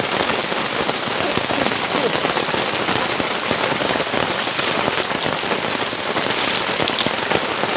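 Steady rain falling: an even, dense hiss of many small drop ticks at a constant level.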